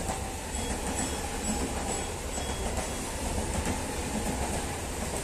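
Electric multiple-unit (EMU) commuter train running past: a steady rumble of wheels on rail, with faint thin whines coming and going above it.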